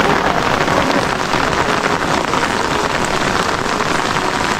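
Heavy rain falling on a surface: a steady, dense pattering hiss.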